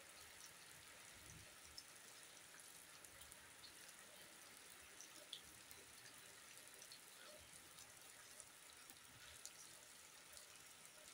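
Faint, steady rain falling on wet ground and foliage: an even hiss with scattered small drop ticks.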